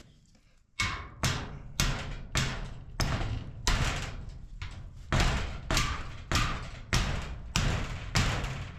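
A hammer driving a stake into rocky ground: a steady series of heavy blows, about one every 0.6 seconds, starting a little under a second in.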